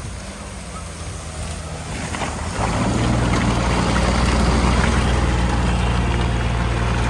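Off-road vehicle's engine pulling under load, rising in level about two and a half seconds in and then holding a steady, loud drone.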